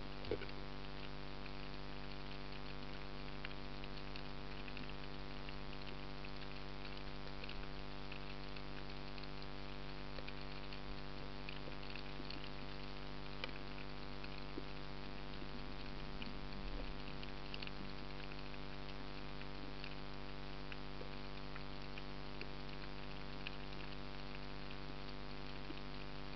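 Underwater ambience: a steady hiss with a constant hum and scattered faint crackling throughout, with a short knock at the very start.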